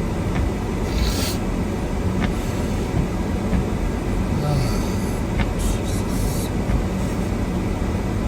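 Four-wheel-drive vehicle driving on a snow-covered road: a steady low rumble of engine and tyres, with a few faint clicks.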